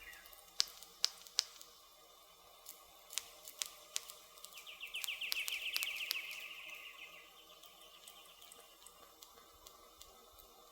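Campfire wood crackling, with sharp pops scattered through, three strong ones in the first second and a half. About four and a half seconds in, a rapid high trill runs for a couple of seconds under further pops.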